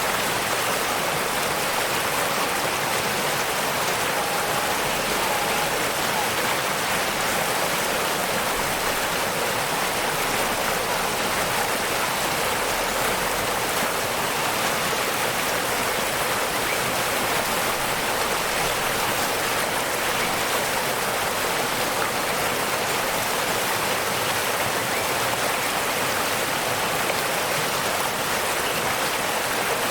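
Waterfall: a steady, unbroken rush of falling water, hissy rather than rumbling.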